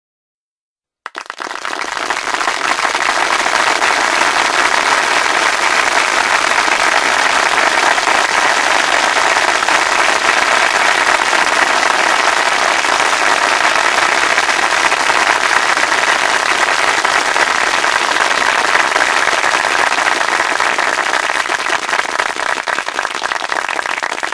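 Applause: many hands clapping together, starting about a second in and going on steadily, easing a little near the end.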